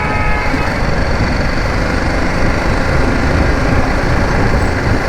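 BMW G 310 GS single-cylinder engine running while riding in traffic, with steady road and engine noise. A vehicle horn tone that started before ends about half a second in.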